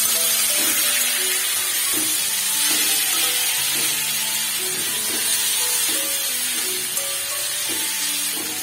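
Chopped tomatoes sizzling in hot mustard oil in a karai as a spatula stirs them, a steady dense hiss. Soft background music with a slow melody plays under it.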